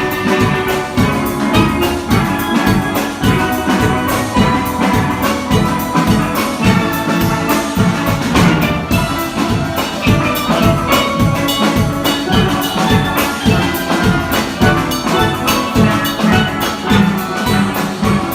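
Steel pan ensemble playing a tune together, many pans striking quick notes over a steady, even beat.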